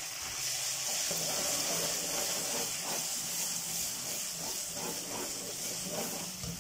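Green chilli, ginger and garlic paste sizzling and hissing in hot oil with fried onions in a karahi, with a metal spoon scraping and knocking against the pan as it is stirred.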